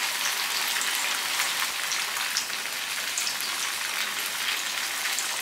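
Tahu aci, tofu stuffed with tapioca batter, deep-frying in hot oil in a pan: a steady sizzle with many small crackles and spits.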